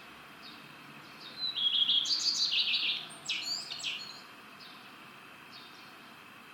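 Common redstart singing one song phrase about a second in: a held opening note, then a quick jumble of twittering notes, ending in a few sharp falling notes. Faint short high notes repeat in the background.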